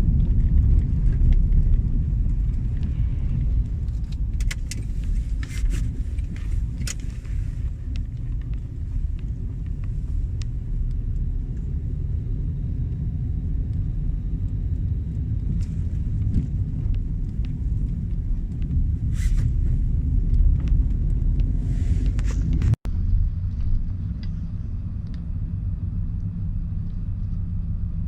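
Steady low rumble of a truck engine running, with occasional short metallic scrapes and clinks from shovels and scrapers working hot asphalt. Near the end the sound cuts out for a moment and the rumble carries on a little quieter.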